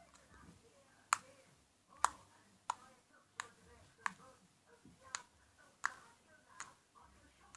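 Homemade slime being squeezed and poked, giving sharp popping clicks from trapped air, about one every second, eight in all.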